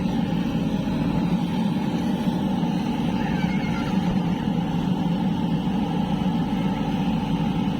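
Heavy diesel machine engine running steadily, a continuous low drone.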